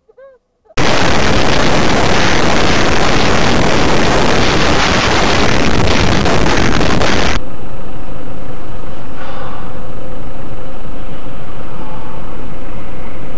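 Loud, steady road and engine noise of a moving car, starting suddenly about a second in; at about seven seconds it changes to a somewhat quieter, duller noise of another drive.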